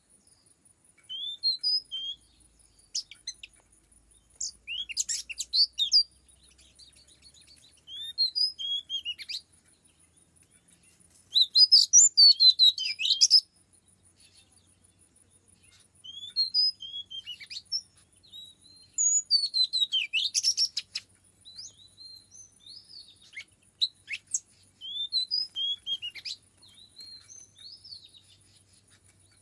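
Oriental magpie-robin (kacer) singing: phrases of varied, sliding whistled notes every few seconds, with short pauses between. A faint steady high whine runs underneath.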